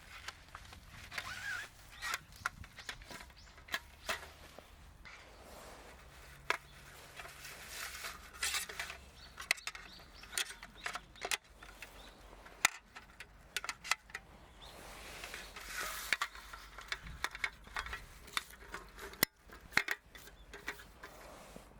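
Scattered sharp clicks and light knocks mixed with rustling, the sound of small objects being handled.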